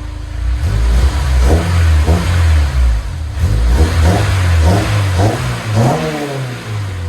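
Honda S2000's four-cylinder engine through an aftermarket exhaust, revving hard several times, its pitch climbing and dropping again about half a dozen times before fading toward the end.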